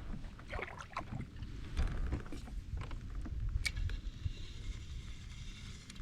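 Water sloshing around a kayak with a low rumble, broken by scattered sharp clicks and knocks of gear on the hull; a strong click comes a little past halfway through.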